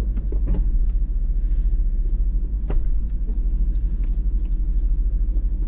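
Hummer H2's V8 engine running at low speed as the truck creeps along the trail, a steady low rumble. A few sharp knocks sound over it, the loudest about halfway in.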